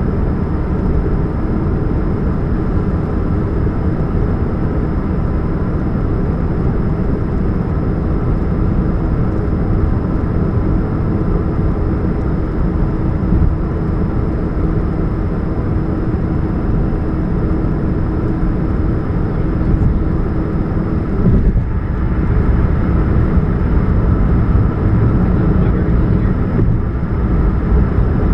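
2013 Chevrolet Spark running with a steady low drone and a faint steady hum throughout: the humming sound that the owner puts down to a leak at the catalytic converter.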